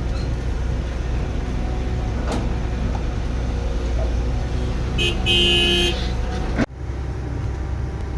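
Heavy machinery engine running with a steady low drone, and a vehicle horn sounding once for about a second near the end, followed by an abrupt break in the sound.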